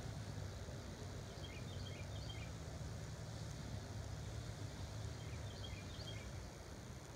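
Outdoor field ambience: a steady low rumble, with short runs of bird chirps twice, about a second in and again around five seconds in.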